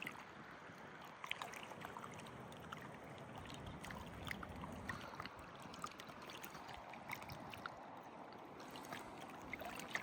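Faint, steady flowing river water running over shallow rocks, with scattered small ticks and splashes.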